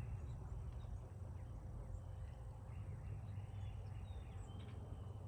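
Outdoor ambience: a steady low rumble with a few faint, short high bird calls scattered through it.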